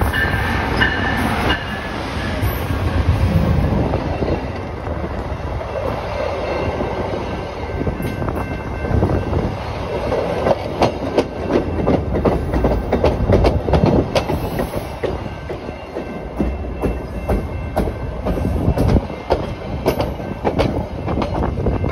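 A VIA Rail P42DC diesel locomotive rumbles past, then its LRC passenger cars roll by with flat wheels banging on the rails in a fast, uneven clatter. The flat spots come from an emergency brake application at line speed.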